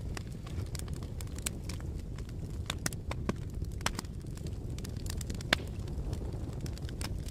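Fire crackling: a steady low rumble with scattered sharp pops and snaps, one louder pop about five and a half seconds in.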